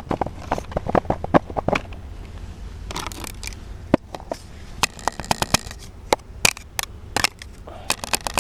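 Soap packaging being unwrapped by hand: the wrapper crinkles and crackles in irregular bursts of sharp crackles, dense at first and then in scattered clusters.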